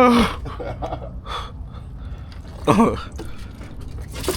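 Short non-word vocal sounds from a man, one right at the start and another a little under three seconds in, over a steady low rumble.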